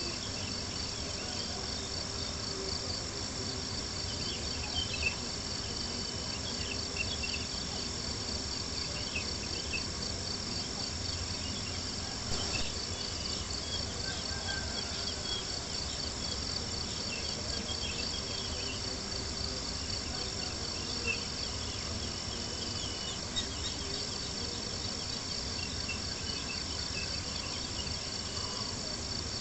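A steady chorus of night insects chirping in a fast, pulsing trill, with a few scattered crackles and pops from a campfire.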